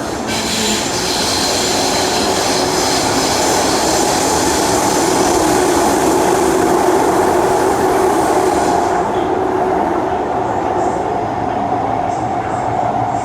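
Kawasaki C151 metro train running through an underground tunnel, heard from inside the car: a steady loud rumble of wheels on rail with a droning hum, and a high-pitched whine that fades out about nine seconds in.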